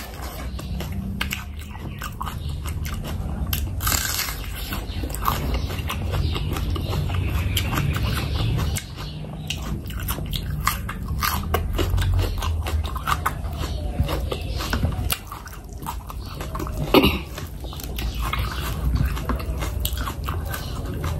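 Close-up eating sounds: crisp crunching bites of a raw onion and wet chewing, with many short crackles and one louder crunch about three-quarters of the way through.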